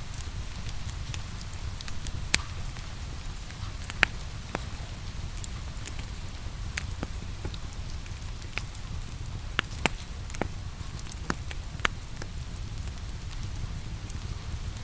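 Wood fire crackling, with irregular sharp pops, the loudest about two and four seconds in, over a steady low rumble and the even hiss of rain.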